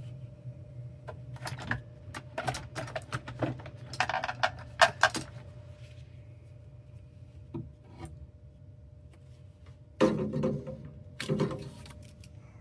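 Hands handling parts and tools during furnace work: clusters of clicks, knocks and rubbing, first for a few seconds and again near the end, over a steady low hum.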